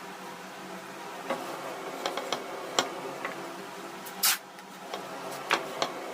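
Scattered sharp clicks and taps of parts being handled during restoration work, with one short hissing burst about four seconds in, over a steady hum.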